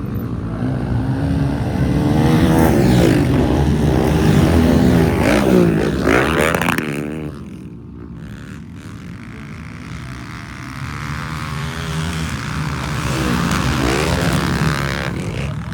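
Motocross motorcycle engines racing, revving up and down repeatedly as the throttle opens and closes. The sound drops off for a couple of seconds just before halfway, then builds again.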